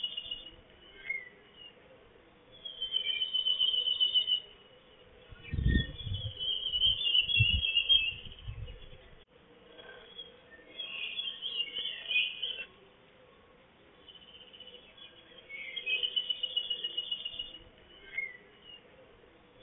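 A songbird singing a short, high, rapid trill over and over, about every four to five seconds. Low rumbling thumps come in about halfway through.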